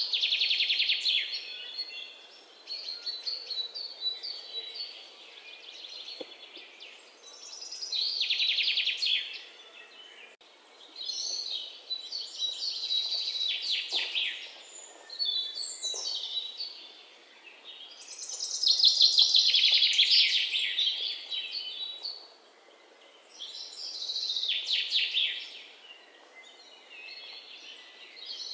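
Songbirds singing: fast, high-pitched trilled phrases, each one to three seconds long, repeated every few seconds over a faint steady outdoor hiss.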